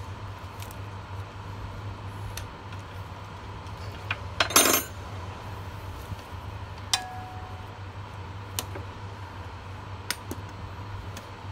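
Metal clinks and clanks from handling tools and a hydraulic hose fitting. The loudest is a short rattling cluster near the middle, followed by a few single clicks, one of which rings briefly. A steady low hum runs underneath.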